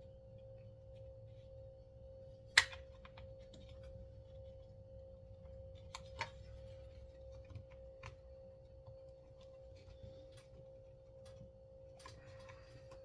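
Scattered light clicks and taps of small parts being handled on a Remington SL9 chainsaw's recoil starter, with one sharp click about two and a half seconds in, over a faint steady hum.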